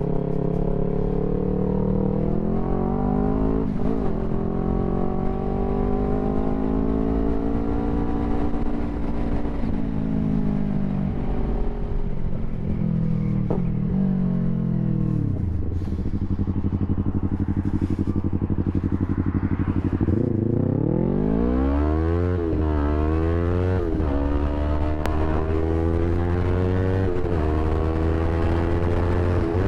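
Yamaha YZF-R3's parallel-twin engine through an Akrapovic full exhaust, under way. The revs rise and fall, then drop to idle for about five seconds around the middle. It then accelerates hard with several quick upshifts and settles into a steady, slowly climbing pull.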